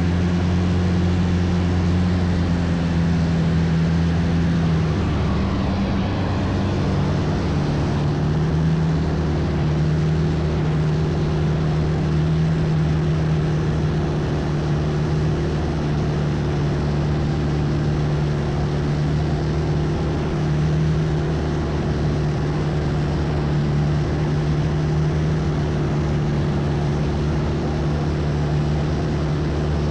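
Longtail boat engine running steadily under way, with rushing noise over it; the engine note shifts about five seconds in, then settles on a slightly lower steady pitch.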